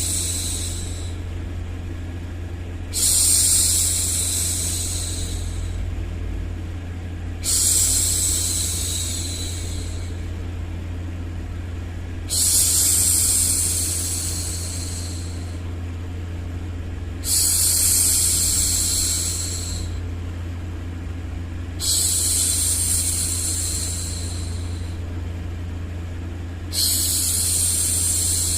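A woman's voice making long hushing 'shhh' sounds to soothe a baby, one about every five seconds, each starting abruptly and fading away over two to three seconds, over a steady low hum.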